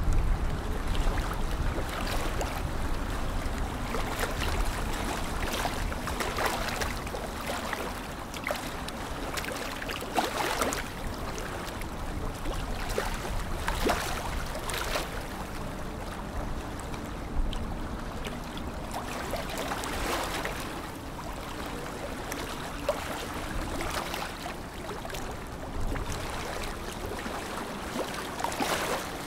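Lake water lapping at the shore: a steady wash with soft, irregular splashes every few seconds, and a low rumble near the start.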